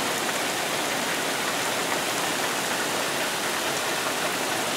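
Hard rain falling steadily, a constant hiss of drops hitting puddled garden soil and grass.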